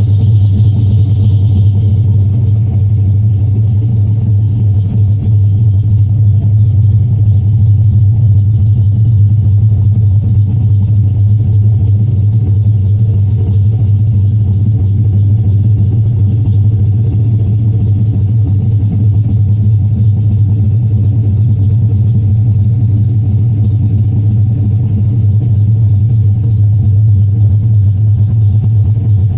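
Chevy Avalanche V8 with an aftermarket cam, idling steadily and loudly.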